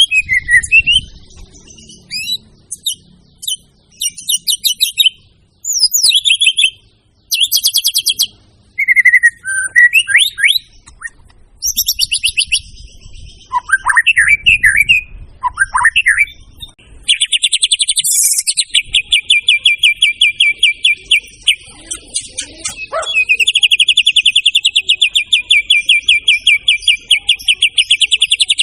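White-rumped shama (murai batu) singing: separate phrases of clear whistles, sweeping slurred notes and short trills, then from about halfway a long run of fast, evenly repeated notes that breaks off briefly and starts again.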